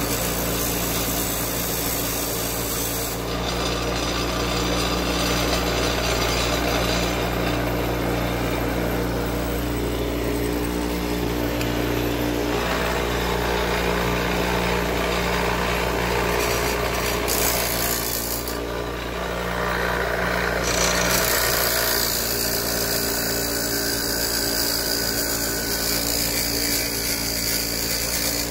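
Electric power tool running with a steady motor hum, its abrasive grinding noise changing in texture every few seconds as the work is pressed and moved against it.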